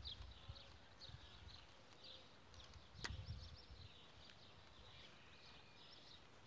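Faint chirping of small birds, many short repeated calls, with one sharp click about three seconds in.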